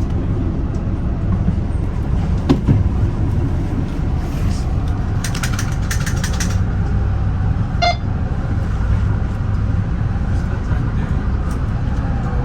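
Steady low rumble of a Metra bi-level commuter train running on the rails, heard from inside the car, with a quick run of sharp clicks about five seconds in and a brief high tone near eight seconds.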